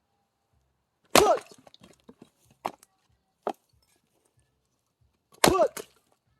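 Axe splitting firewood: two loud chopping strikes, about a second in and near the end, each with a short ringing after the crack, and a few smaller knocks of wood between them.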